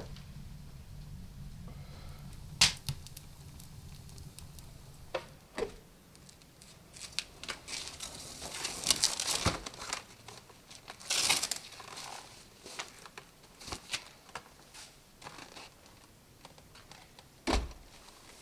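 Rustling and crinkling in bursts, with scattered sharp clicks and a knock with a low thud near the end: things being handled in a small room.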